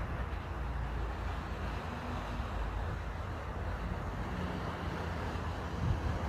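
Wind buffeting the microphone: a steady low rumble with an even rushing noise over it, and a faint hum coming and going underneath.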